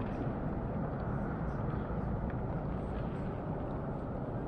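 Steady low rumble of a landing jet airliner passing over and moving away, slowly fading.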